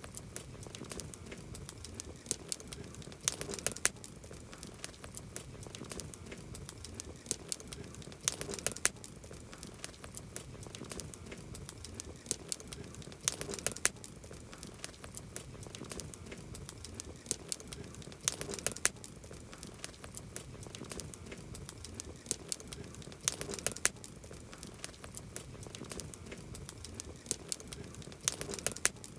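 Wood campfire crackling: a steady hiss of the burning fire with many sharp pops and snaps, and a denser flurry of pops about every five seconds.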